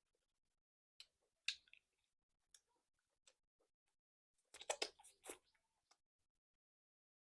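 Close-miked eating sounds: a few isolated mouth clicks and smacks, then a short cluster of sharper chewing clicks a little past halfway, with near silence between.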